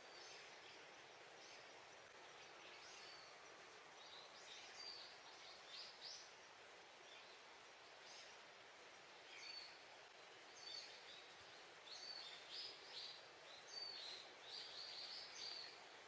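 Small birds chirping faintly in short, high calls, coming more often in the second half, over a steady faint background hiss.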